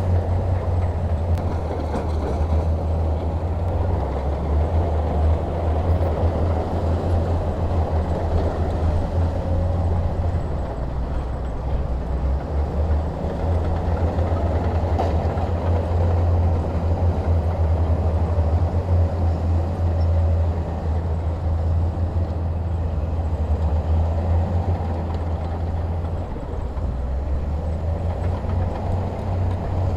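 Heavy diesel engine running steadily with a deep, low drone, with a slight dip in level a few seconds before the end.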